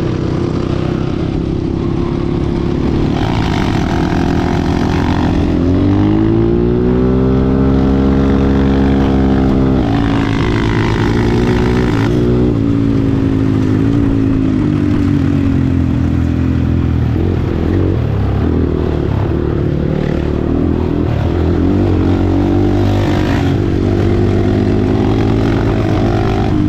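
Dirt bike engine running under way, revving up in a rising whine about six seconds in and easing back down a few seconds later, then running on steadily.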